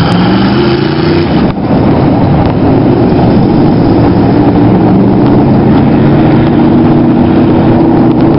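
Tough truck's engine running hard at high revs, loud enough to distort the recording; the pitch climbs in the first second, dips briefly about a second and a half in, then holds high.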